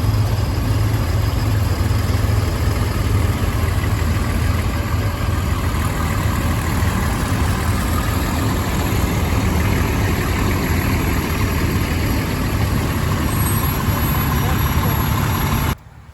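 Tractor engines idling steadily with a deep, even low hum, with voices under it; the sound cuts off abruptly near the end.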